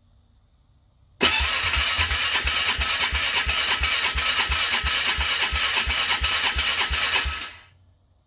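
A car's starter motor cranking the cold engine for about six seconds, with an even chugging beat of about three to four pulses a second, then stopping without the engine catching: a hard cold start.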